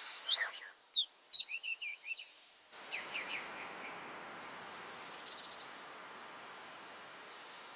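Small birds chirping in quick, short calls for the first couple of seconds. A steady hiss of outdoor noise then takes over, with a few faint chirps over it.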